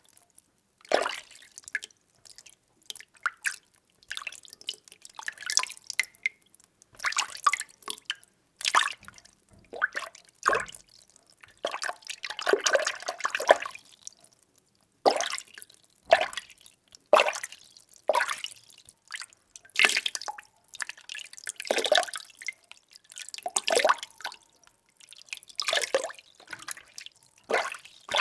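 Water being stirred in a container, with irregular splashes and sloshes about once or twice a second and a longer swirl about halfway through.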